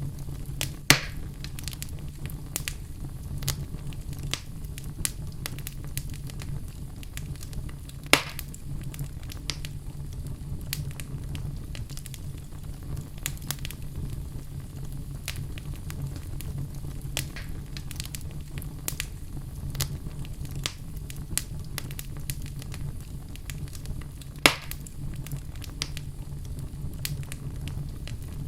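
Wood fire burning in a fireplace: a steady low rumble of flames with frequent small crackles and three sharper, louder pops at about one, eight and twenty-four seconds in.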